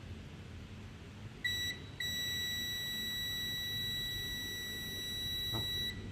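Electronic beeper sounding a single high steady tone: a short beep, then after a brief break a long beep of about four seconds that cuts off suddenly.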